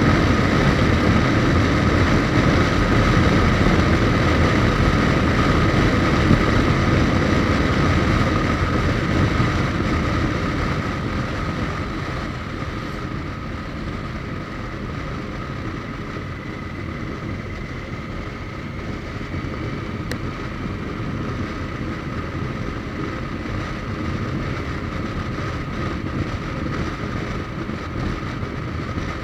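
Suzuki GSX1250FA motorcycle riding on the road: its inline-four engine runs steadily under heavy wind noise on the microphone. It grows quieter from about ten seconds in.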